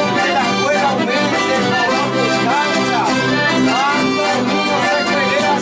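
Chamamé played live, led by an accordion carrying a continuous melody over a steady accompaniment.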